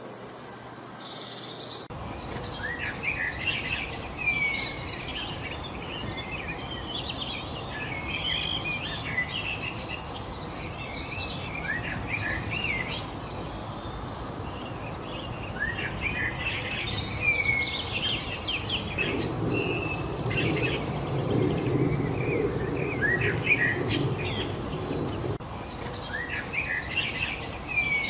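Many birds chirping and singing together in a dense chorus of quick rising and falling notes, which fills in about two seconds in. Under it runs a steady background hiss, with a low rumble swelling from about 19 to 25 seconds.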